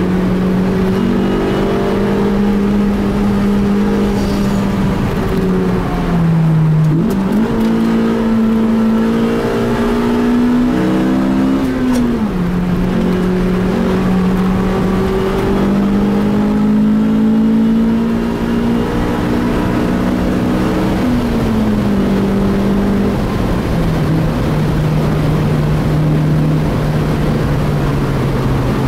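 Car engine heard from inside the cabin, running hard at high revs with a steady pitch. The pitch drops and comes back up about a third of the way in, rises and falls again a few seconds later, and settles lower near the end, like gear changes.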